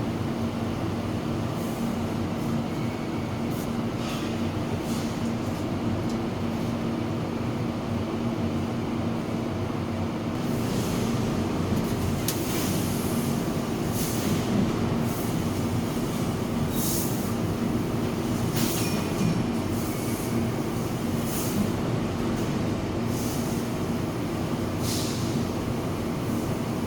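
Machinery running with a steady rumble and a constant low hum. From about ten seconds in, short, sharp hisses come every second or two.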